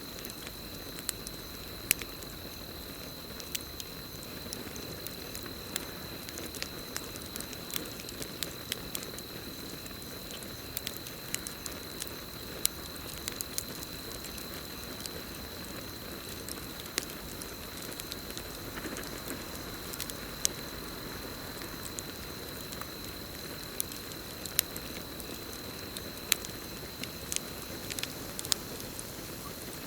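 Campfire burning: a low steady rush of flames with irregular sharp crackles and pops, some close together, over a steady high-pitched trill of crickets.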